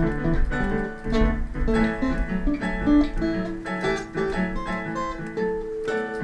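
Acoustic guitar playing, plucked notes and strums.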